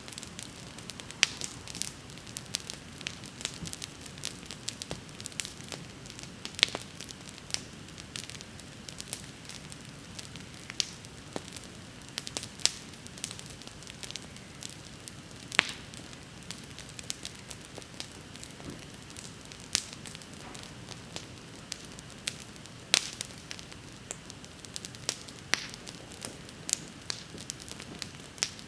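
Wood bonfire burning with a steady low hiss and frequent sharp, irregular crackles and pops.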